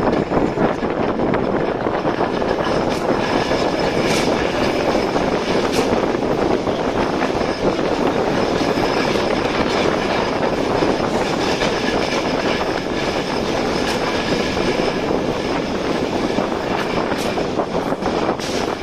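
Regional passenger train running on rails, heard from aboard a coach: a steady rolling rumble with a few sharp clicks at irregular intervals, typical of the wheels passing rail joints and turnouts.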